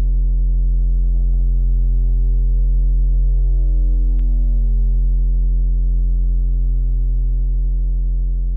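Synthesized 'space sound' drone: a loud, steady, deep electronic hum with a stack of even overtones above it, holding one pitch throughout.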